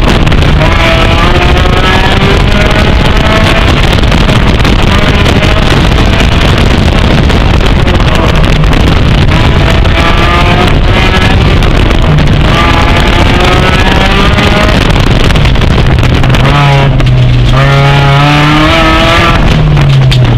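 Porsche 944's four-cylinder engine, heard from inside the cabin, revving hard through an autocross run. The pitch climbs again and again and falls back with each shift and lift, over loud, steady road and wind noise.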